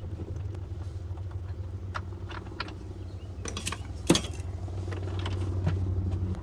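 Light metallic clinks and taps of hands and tools on parts in a car's engine bay, the sharpest about four seconds in, over a steady low hum of the engine running.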